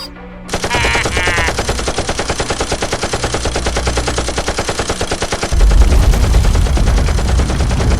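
A loud, fast, even rattle of rapid clicks, like machine-gun fire, starting about half a second in, with a short squeaky pitched sound near the start and a deep rumble joining about five and a half seconds in.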